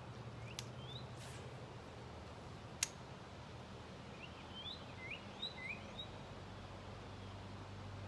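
Small birds chirping, with short rising chirps: a couple near the start and a quick run of them around the middle. A single sharp click about three seconds in. A faint steady low hum underneath.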